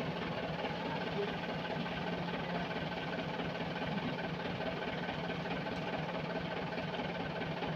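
A heavy machine's engine running steadily at an even speed, a constant low drone with a mechanical rattle over it.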